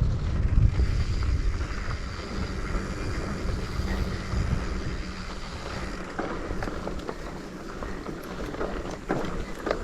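Wind buffeting the microphone, a low rumble that is strongest in the first second or two and then eases, with scattered small clicks and knocks.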